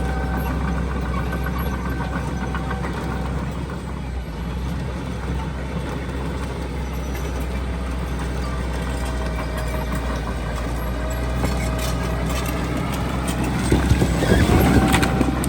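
Heavy diesel earthmoving machinery running steadily with a low engine drone; the engine revs up near the end and grows louder, with some clanking.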